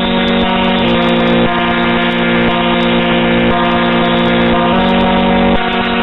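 Loud, harsh computer-generated bytebeat-style tones, a buzzy chord of steady pitches that jumps to new notes every half second or so.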